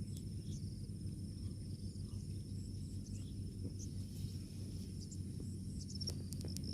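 Insects trilling steadily in high thin tones over a low rumbling background noise, with a few sharp clicks about six seconds in.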